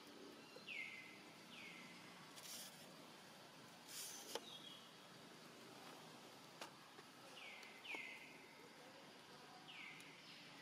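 Faint forest ambience: a bird calls several times, each call a short downward sweep in pitch that levels off, with a couple of brief hissy rustles and a few sharp ticks.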